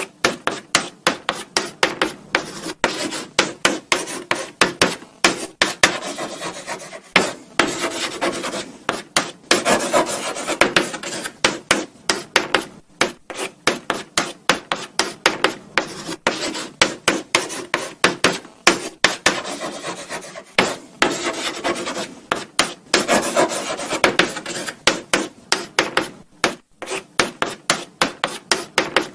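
Chalk writing on a blackboard: quick, irregular scratching and tapping strokes with brief pauses between words.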